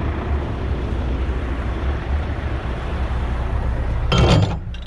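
Heavy truck diesel engine idling with a steady low rumble, and a brief louder clatter about four seconds in.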